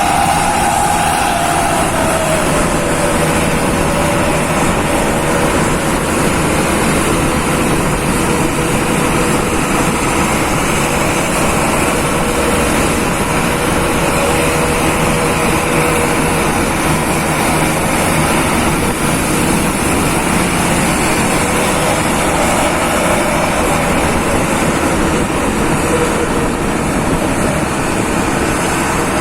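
A vehicle driving on the road: an engine running under steady road noise. Its engine note falls in pitch about two seconds in, then holds steady.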